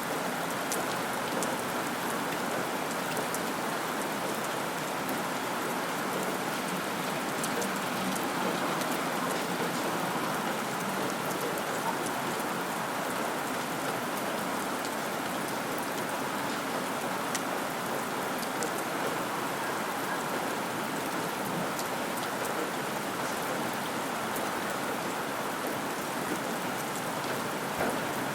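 Steady rain falling, an even hiss with faint scattered drop ticks on top.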